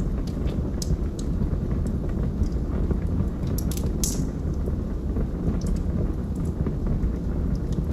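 Log fire burning: a steady low rumble with scattered sharp crackles and pops, the loudest about four seconds in.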